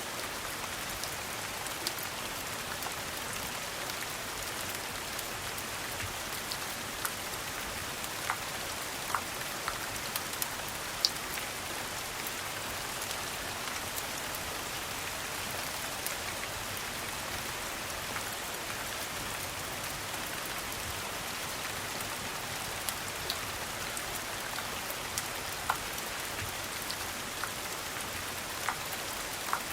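Steady rain falling, an even hiss with scattered sharp clicks throughout.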